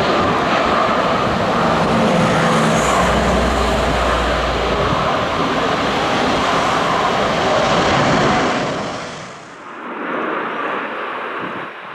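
Jet airliner's engines running loud during a landing approach in strong wind, with a low wind rumble on the microphone a few seconds in. Around nine seconds the noise falls away sharply and a quieter, duller engine sound follows.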